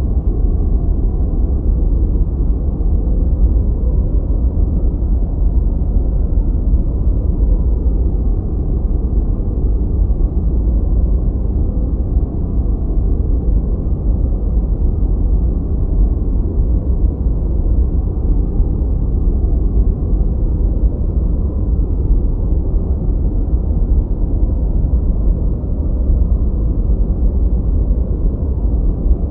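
Continuous generated noise, steady and unchanging, deep and rumbling, with its weight in the bass and almost nothing in the highs.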